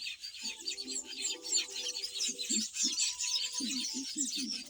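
A nesting colony of weaver birds chattering: a dense, continuous high-pitched chatter of many birds at once. From about half a second in, lower-pitched notes sound underneath.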